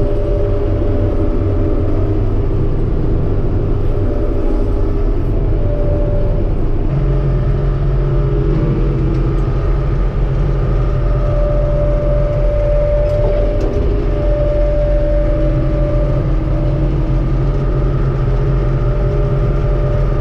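Claas Dominator 85 combine harvester running, heard from inside the cab: a loud, steady engine drone with the whine of the threshing machinery. The tone shifts about seven seconds in.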